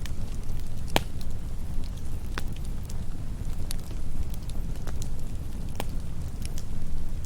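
Campfire burning: a low steady rumble of flames with scattered crackles and pops from the burning wood, the sharpest pop about a second in.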